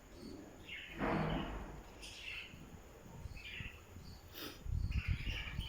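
A parrot making a few short chirps, about a second apart, with a louder noisy call about a second in. Low rumbling thumps come near the end.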